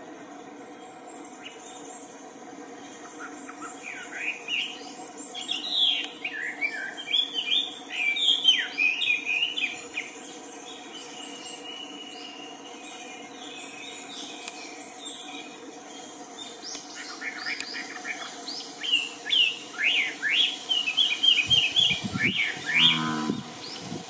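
Wild birds chirping in two bouts of quick, high twittering notes over a steady background drone of forest ambience.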